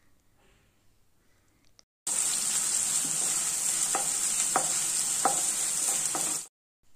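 Chopped onions sizzling in hot oil in a kadai, stirred with a wooden spatula that knocks against the pan about four times. The sizzle starts abruptly about two seconds in, after near silence, and cuts off shortly before the end.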